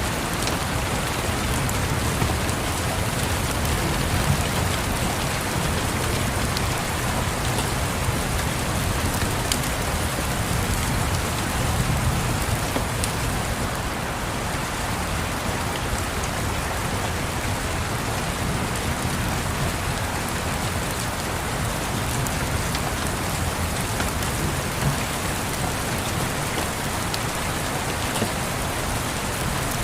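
Steady rain on windows, with a low rumble underneath and occasional faint crackles from a log fire.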